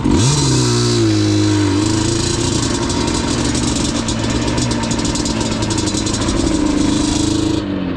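ATV engine revving up sharply, then running at a steady raised speed with slight wavering and easing off near the end. A steady hiss runs with it and cuts off suddenly just before the engine drops.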